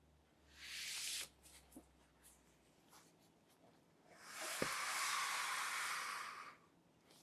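Something being rubbed or slid by hand, friction noise twice: a short stretch about half a second in and a longer one of about two seconds past the middle, with a few light clicks and taps between.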